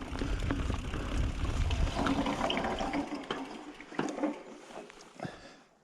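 Mountain bike riding down a rocky trail feature: tyre rumble and wind on the camera's microphone, a few sharp knocks as the bike goes over rock, fading as the bike slows.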